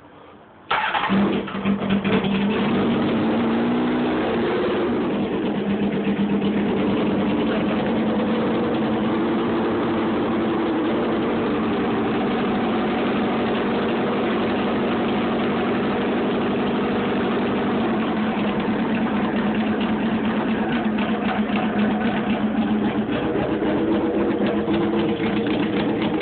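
1998 Honda CBR900RR inline-four with its exhaust can removed, starting cold on the choke about a second in, then idling steadily and loudly through the open pipe.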